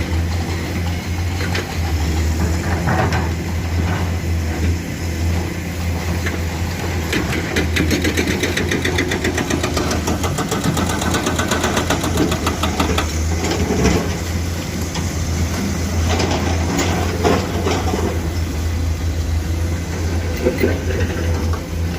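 Excavator diesel engines running steadily, with a fast metallic rattle for several seconds in the middle and a few separate knocks later, typical of an excavator at work loading.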